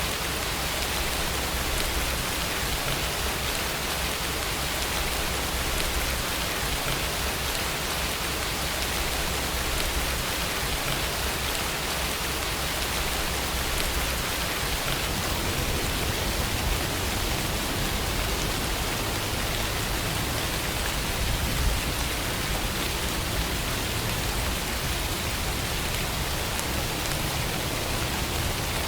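Steady rainfall, an even hiss of rain with no change in intensity.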